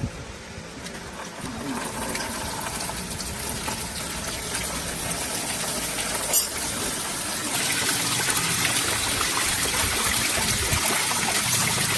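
Steady rushing of spraying water that gets louder about halfway through, with one sharp knock a little past the middle.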